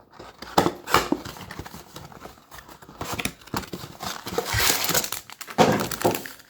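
Wrapping of a trading-card blaster box and its foil packs being torn open and crinkled, in irregular crackling rustles that are busiest in the second half.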